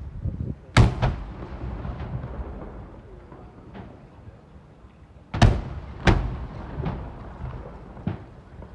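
Aerial fireworks shells bursting: loud booms about a second in and twice more around five and six seconds in, with fainter bangs between and a low rumble trailing each.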